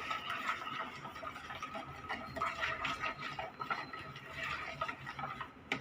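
Spoon stirring yeast, sugar and salt into warm water, with irregular light clinks and scrapes against the container.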